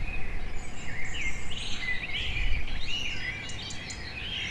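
Small songbirds chirping and singing in quick, varied phrases over a low rumble.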